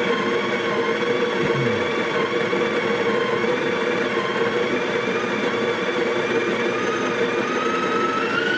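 Breville Barista Pro's built-in burr coffee grinder running steadily, grinding beans. Near the end its whine starts to rise in pitch as the beans run out and the burrs begin to spin empty.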